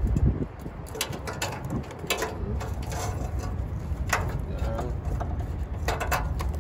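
Low rumble of wind on the microphone, with scattered clicks and clunks of parts and hand tools being handled under the hood.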